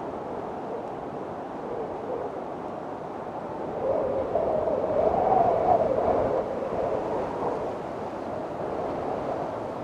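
Strong wind blowing in a windstorm, a steady rush that swells into a louder gust with a wavering howl about four to six seconds in, then eases back.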